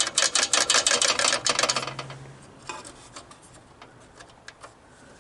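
Ratchet wrench clicking rapidly as a bolt is run in, stopping about two seconds in, followed by a few faint clicks of handling.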